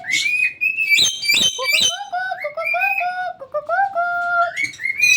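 Pet parrots giving a busy run of short, pitched whistles and chirps that step up and down in pitch, with some notes overlapping. A few sharp clicks come about a second in.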